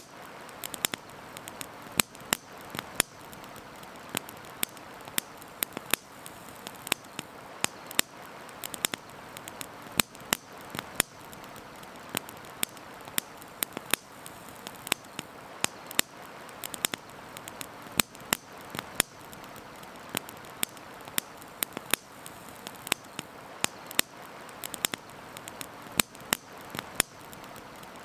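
Wood campfire crackling, with frequent sharp irregular pops and snaps over a steady rushing hiss of river water.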